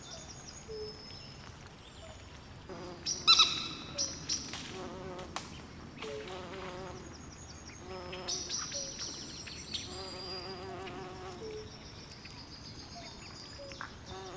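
Swamp wildlife chorus: insects, frogs and birds calling together. Many short high chirps and whistles run over low, wavering trills, with a louder call about three seconds in.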